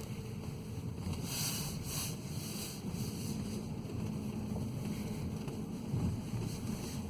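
Steady low rumble inside the cabin of a 2015 Ford C-MAX Energi plug-in hybrid that has a fault making it lose propulsion power.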